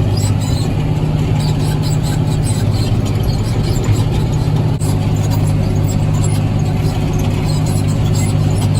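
New Holland tractor's diesel engine running steadily under load while pulling a tillage implement, with a constant low hum and scattered light high-pitched clicks and rattles.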